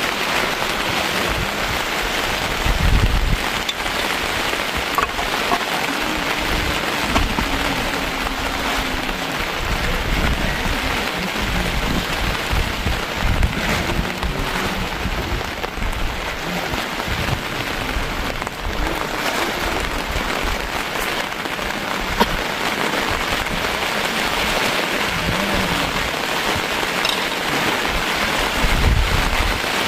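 Steady, heavy-sounding rain falling, an even hiss throughout, with low rumbles about three seconds in and again near the end.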